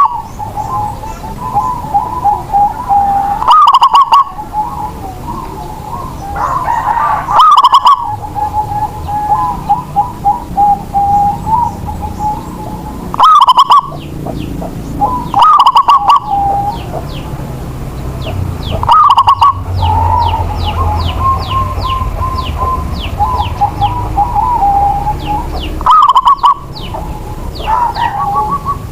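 Zebra dove (perkutut) singing: about eight loud, short cooing phrases every few seconds, with softer rapid cooing notes between them and faint high chirps of small birds in the background.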